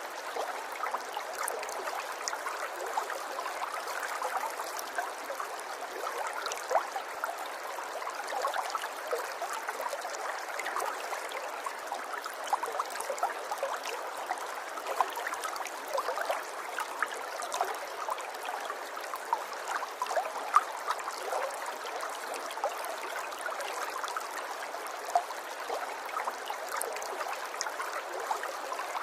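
River water flowing and babbling over stones, a steady splashing with many small bright drips and plinks.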